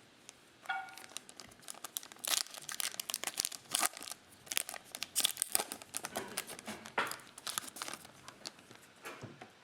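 Plastic wrapper of a trading-card pack crinkling and tearing as it is opened and handled, a long run of irregular crackles.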